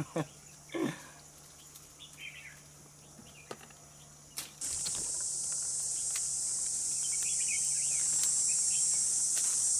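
Insect buzzing in a high, steady drone that starts suddenly about halfway through and slowly grows louder, over a few faint knocks and rustles before it.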